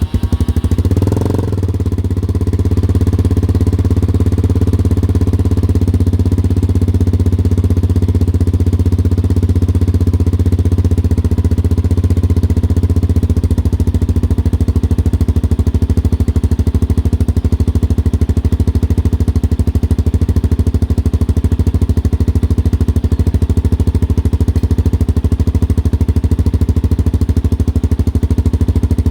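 Honda XR250 Motard's single-cylinder four-stroke engine idling through a Delta Barrel 4 aftermarket muffler, with a short rise in revs about a second in, then a steady idle.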